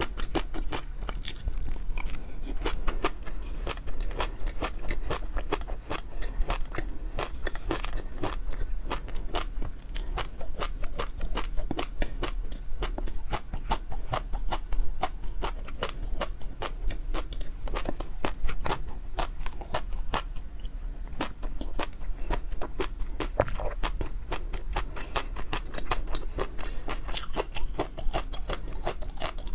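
Close-miked chewing and biting of food, a dense run of quick crunches and clicks with no pause.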